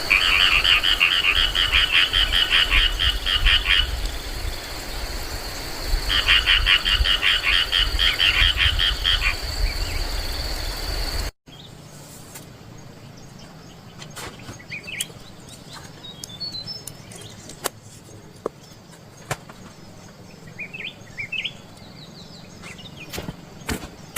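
Frogs calling in rapid pulsed trills, two bouts of about three to four seconds each, over a steady high-pitched insect drone. After a sudden cut about eleven seconds in, a quieter stretch follows with scattered clicks and short bird chirps.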